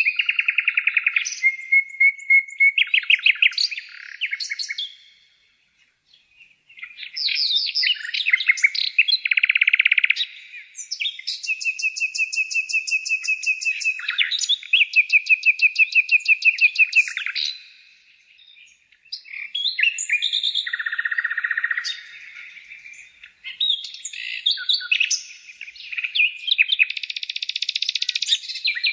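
Songbird singing in long, high-pitched phrases of fast trills and repeated chirps, with short breaks about five and eighteen seconds in.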